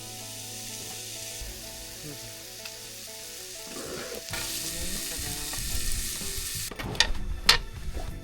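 Food sizzling in a hot pan over a camp fire or stove. The sizzle grows louder about halfway through, and several sharp clicks of a utensil against the pan come near the end.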